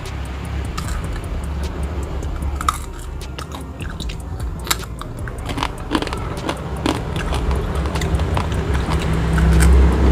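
Close-up mouth sounds of eating by hand: chewing and biting, with many small wet clicks and smacks, as fried food with rice and sambal is eaten. A low rumble runs underneath and grows louder near the end.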